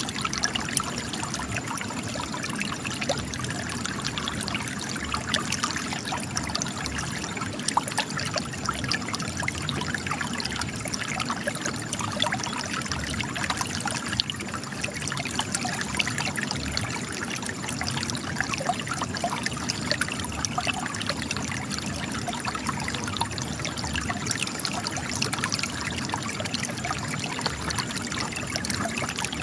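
Spring water gushing and trickling from cracks in rocks, a steady splashing flow.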